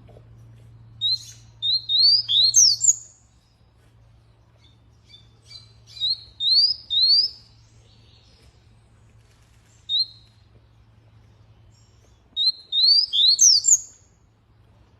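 Domestic canary singing in three short bursts of quick rising chirps, with pauses between them and a single lone note in one of the gaps.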